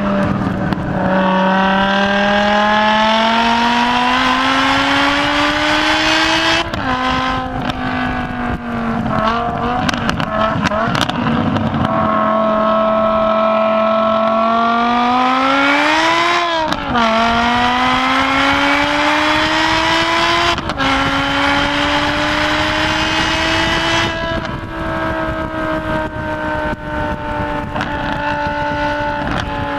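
BMW M6 engine driven hard around a race circuit. Its note climbs through each gear and drops sharply at the gear changes, with stretches of steady or easing revs between.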